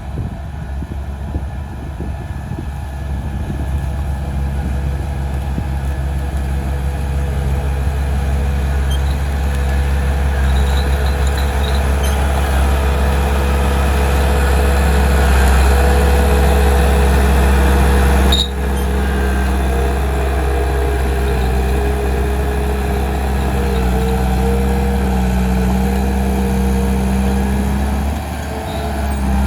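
Heavy diesel engine of earthmoving equipment running steadily under load, growing louder toward the middle, with a sudden brief drop and click about two-thirds of the way in.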